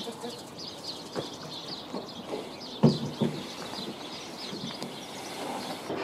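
Small birds chirping repeatedly in short high calls, with a few brief louder sounds, the loudest about three seconds in.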